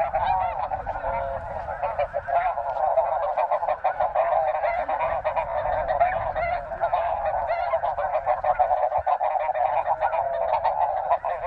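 A huge flock of snow geese calling, a continuous din of many overlapping high honks.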